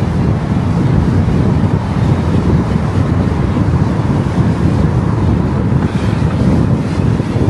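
Steady low rumble of wind and road noise from a car driving along a road.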